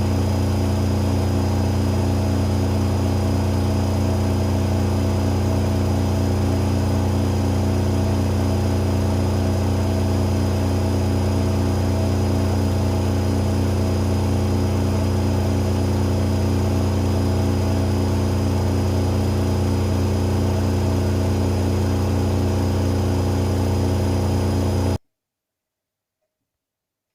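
AEG Öko-Lavamat 88840 washing machine spinning at a steady high speed, a loud constant motor hum and drum whir that holds one pitch. It cuts off abruptly about 25 seconds in.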